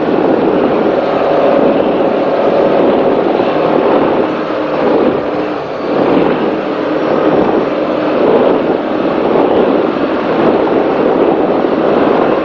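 Offshore racing powerboat under way at speed, heard on board: a steady, loud engine drone mixed with the rush of wind and water, swelling and dipping slightly.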